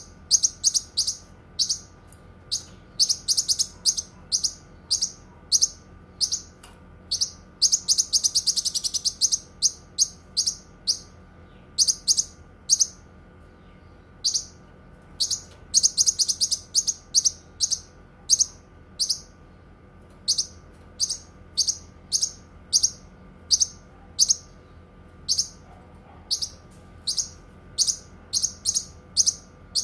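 Cucak kinoi songbird calling in short, high-pitched chirps repeated every half second or so, breaking into a quick, dense trill twice along the way.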